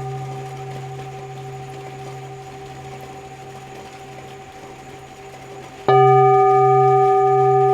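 Tibetan singing bowls ringing: one tone fades slowly, then about six seconds in a bowl is struck and rings out loud with a slow, wavering pulse in its low hum. A faint rain hiss lies underneath.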